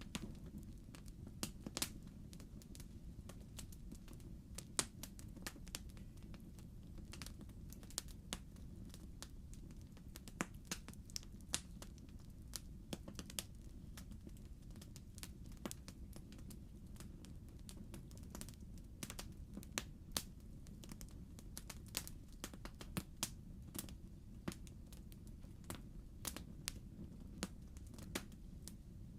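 Wood fire in a fireplace crackling: a steady low rumble of the burning logs with irregular sharp pops and snaps, several a second at times.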